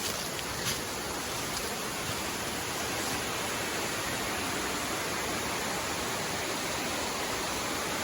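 Waterfall pouring into a mountain creek: a steady, even rush of falling water.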